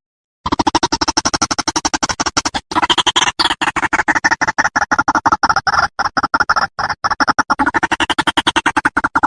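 White-breasted waterhen calling: a rapid run of short, repeated notes, about nine a second, with a brief break about two and a half seconds in.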